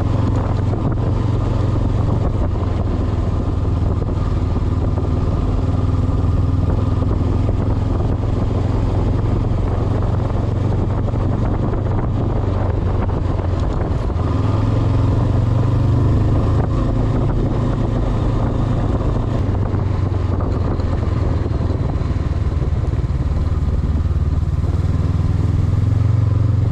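Honda CB500X's parallel-twin engine running steadily while riding, under wind and road noise; the engine note rises a little about halfway through and again near the end.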